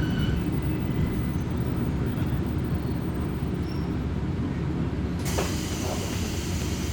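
Kominato Railway diesel railcar running, a steady low rumble heard from inside the car. About five seconds in, a sudden hiss of air starts with a couple of knocks and keeps going.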